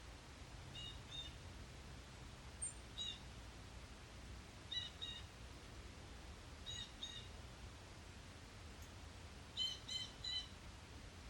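Short, sharp bird call notes, mostly in pairs, repeating every two seconds or so, with a quick run of three or four near the end, over a faint steady low rumble.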